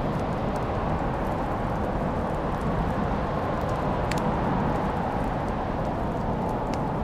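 Fireplace fire burning with a steady low rush and a few sharp crackles and pops, the loudest about four seconds in.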